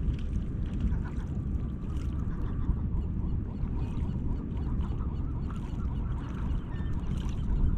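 Gulls calling in short cries over a steady low rumble.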